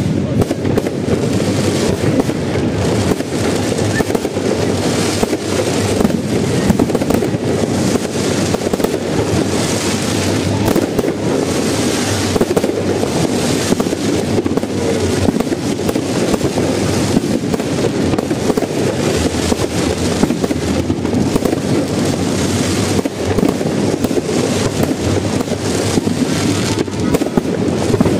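Fireworks display going off: many bangs and crackles in quick succession, without a pause.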